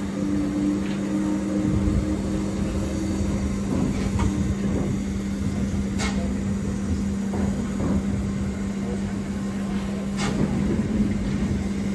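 Steady mechanical hum over a low rumble, with a second tone for the first few seconds and short sharp clicks about four, six and ten seconds in.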